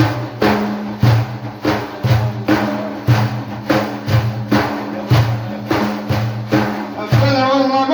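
Hand-beaten frame drums with jingles keep a steady beat of about three strikes every two seconds, with a low steady tone sounding underneath.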